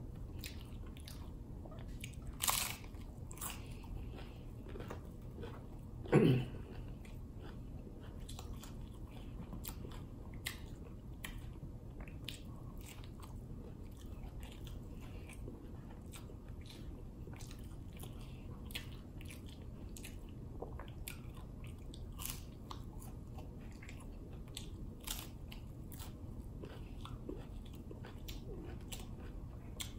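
Crunching and chewing of a Doritos Locos hard taco shell, with crisp bites scattered throughout. A loud crunch comes about two and a half seconds in, and a short sound falling in pitch about six seconds in.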